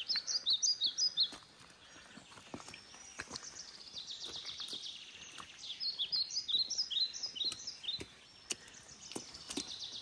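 Small songbirds chirping and trilling: lively bursts of quick high notes in the first second or so and again from about six to eight seconds in, with a rapid even trill between.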